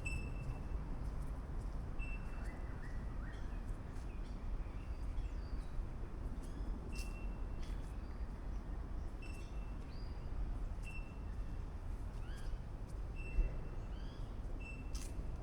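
Birds calling in a garden: short high notes repeated every second or two, with other brief chirps between them, over a steady low rumble.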